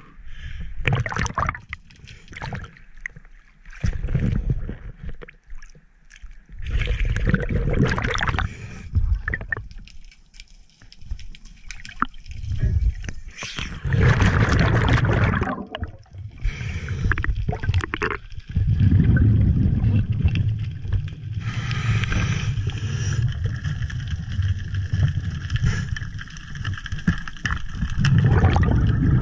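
Water sloshing and gurgling against a GoPro's waterproof housing, heard muffled through the case, in irregular bursts as the diver leaves the surface, then a steadier low underwater rumble with bubbling from about two-thirds of the way in.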